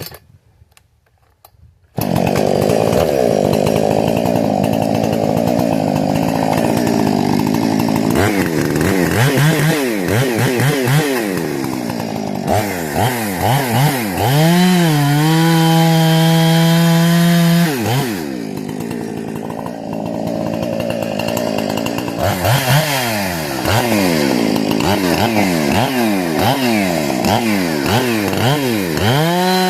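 Husqvarna 460 two-stroke chainsaw with a modified carburetor and muffler, in its break-in tank, starts running hard about two seconds in. Its pitch rises and falls again and again as it goes through cuts, with stretches of steady, high-pitched free revving.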